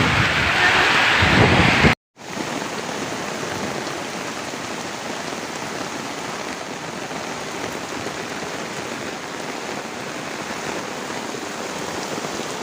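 Storm rain pouring down steadily as a dense, even hiss. About two seconds in it cuts out for a moment and comes back a little quieter.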